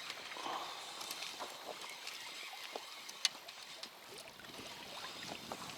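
Faint water and wind noise around a small fishing boat, with a few light clicks and one sharper click about three seconds in.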